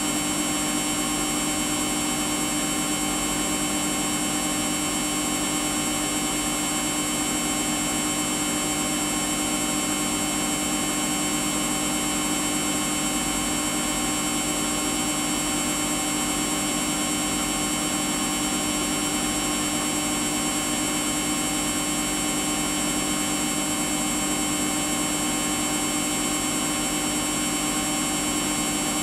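Samsung washing machine spinning its drum at a steady speed on the Daily Wash 40 programme: a constant motor whine and hum that never pauses or changes.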